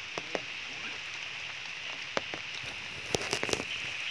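Steady rain falling, with scattered sharp drop ticks and a quick run of louder ticks about three seconds in.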